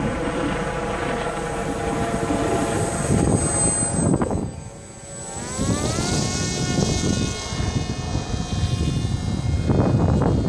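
A motor or engine running with a steady pitched hum. About halfway through it drops away briefly, then its pitch rises and holds at a higher note.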